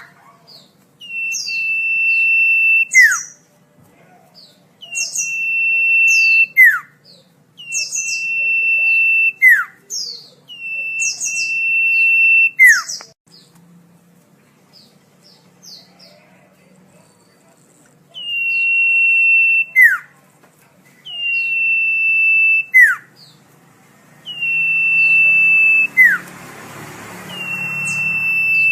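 Common iora (cipoh) singing: a repeated phrase of a long, steady, high whistle ending in a sharp downward slur, about every two to three seconds, with a pause of several seconds midway. A soft hiss rises under the last few phrases.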